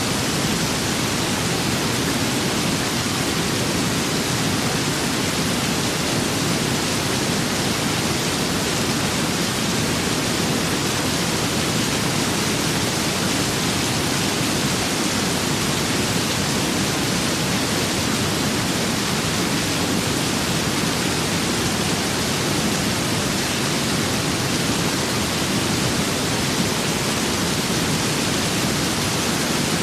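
Steady rain and wind: a dense, even hiss with no separate drops, gusts or thunder standing out.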